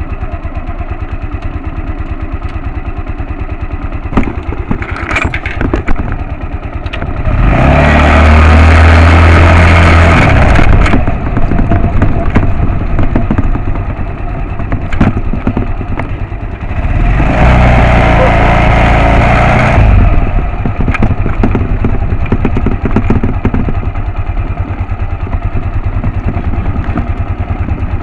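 125 cc motorcycle engine running at idle, revved up twice for a few seconds each, about a quarter and two-thirds of the way through, then settling back.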